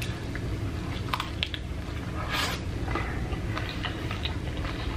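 A person chewing a mouthful of Jack in the Box taco with the mouth near the microphone: scattered small wet smacks and clicks, a louder one about two and a half seconds in, over a steady low hum.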